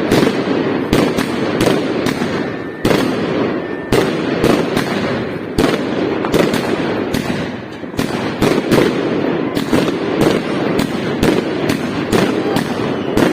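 Fireworks going off: a long run of sharp bangs, roughly one to two a second and unevenly spaced, over a continuous crackling.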